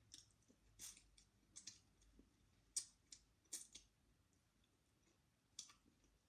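Faint close-up eating sounds: scattered sharp clicks and smacks of a mouth chewing food eaten by hand, about ten in all at irregular intervals, the loudest nearly three seconds in and again half a second later.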